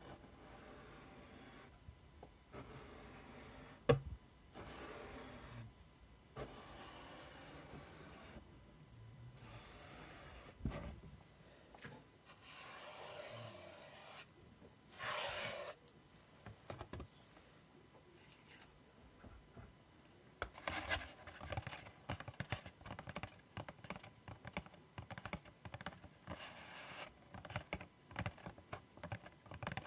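ASMR scratching and tracing: a series of long scratching strokes over a surface, one to two seconds each, with one sharp click early on. About two-thirds of the way through it changes to quick, light tapping.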